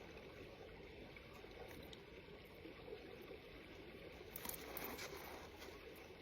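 Faint water lapping and trickling around a kayak, with a short patch of clicks and rustles about four and a half seconds in.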